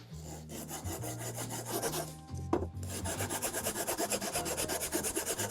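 Hand file rasping back and forth, trimming a part until it fits; the strokes are irregular at first, then settle into a steady rhythm of about four a second.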